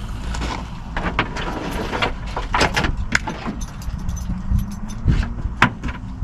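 Scattered clicks, knocks and rattles of things being handled around a parked van, over a steady low rumble.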